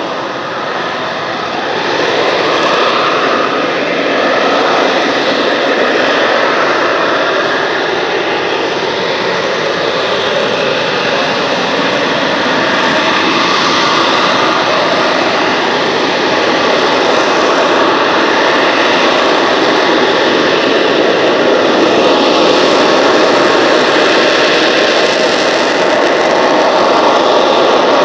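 McDonnell Douglas AV-8B Harrier II jet running loud and steady, its Rolls-Royce Pegasus turbofan giving a dense, continuous jet noise that swells a little about two seconds in.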